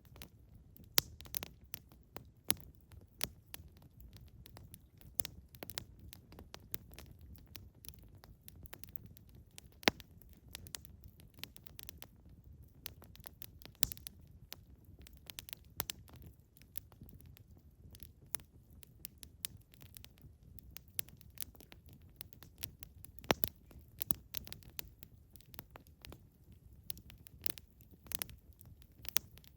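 Wood campfire burning, with irregular sharp crackles and pops, a few of them much louder, over a faint low steady rumble.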